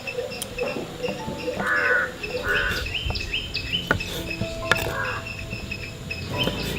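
Short bird chirps repeating many times, with insect-like calls and a few sharp clicks.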